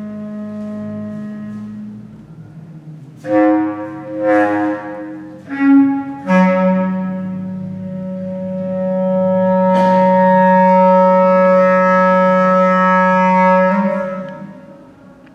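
Solo bass clarinet: a long low held note, then a few short, sharply accented notes between about three and six seconds in, then another long low note that swells and fades out near the end.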